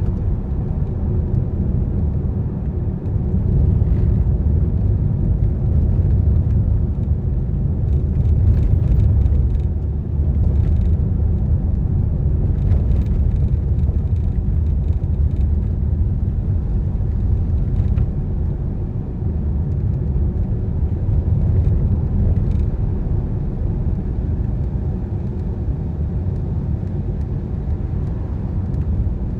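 Car driving on a wet road: a steady low rumble of tyres and engine, with a few faint ticks now and then.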